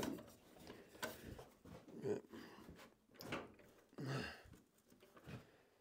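A few faint, separate knocks and rubs, about one a second, as the seized swivel of an old Craftsman radial arm saw's arm is worked by hand and will not turn freely.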